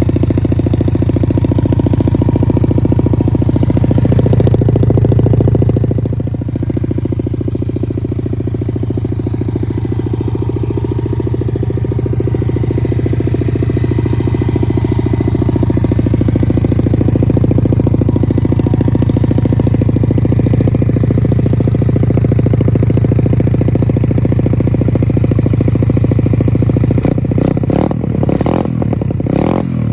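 125 cc pit bike engine running at a steady idle through its exhaust, with a brief rise in revs about five seconds in. Near the end the sound turns uneven, with clattering knocks.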